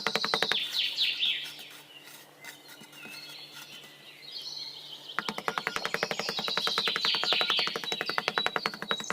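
Birds chirping in short, repeated downward-sweeping calls, over a fast, even pulsing sound that stops about half a second in and comes back about five seconds in.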